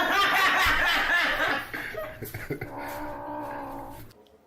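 A cat growling: a loud, rough, rapidly fluttering growl, then a long steady low yowl that cuts off suddenly near the end.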